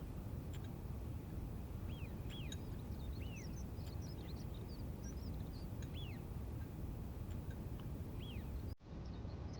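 Outdoor ambience of small birds chirping, scattered short arching chirps heard now and then over a steady low rumble. The sound drops out briefly near the end.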